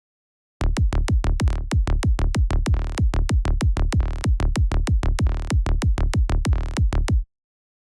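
Electronic kick drum and synth bass loop, made with Kick 2 and Sylenth, playing back as a rapid run of punchy hits over a deep, heavy bass. It starts about half a second in and stops abruptly near the end.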